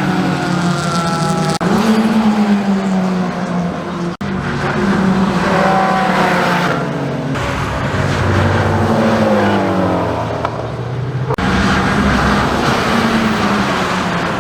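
Performance car engines revving hard, their pitch repeatedly sweeping downward as they pass or come off the throttle. The sound changes abruptly several times, as separate short takes are cut together.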